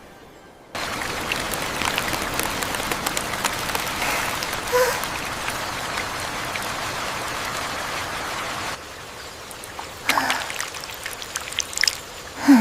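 Rain falling, a steady patter that starts abruptly about a second in and turns quieter about nine seconds in. Near the end a short, loud sound slides down in pitch.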